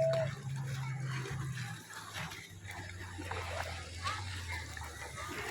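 Water splashing with the low, steady hum of a small boat engine, which drops to a lower pitch about two seconds in as it slows.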